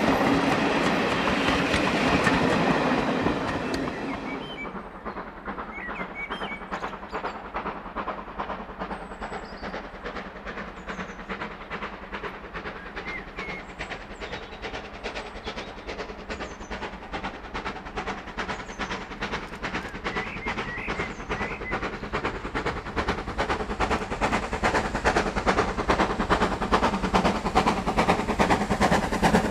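Steam train on a heritage line, loud for the first few seconds and then fading, with a rapid, even rhythmic beating throughout that grows louder again toward the end.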